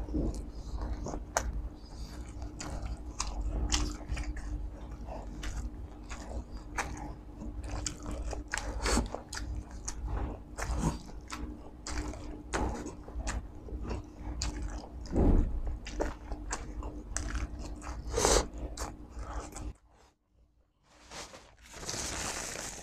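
Close-miked chewing and wet mouth sounds of a person eating chicken isaw (chicken intestines) with rice, with many short smacks and clicks. Near the end a paper napkin rustles against the mouth.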